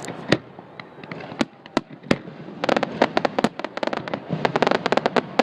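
Fireworks going off: a few separate sharp bangs in the first two seconds, then rapid runs of crackling pops.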